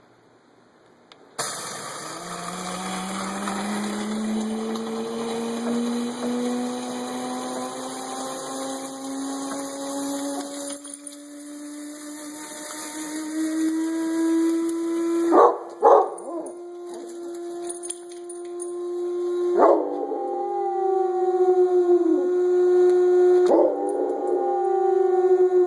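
Coffee maker running with a steady whine that rises slowly in pitch over a hiss. From about halfway through, a basset hound howls along with it in several swooping howls.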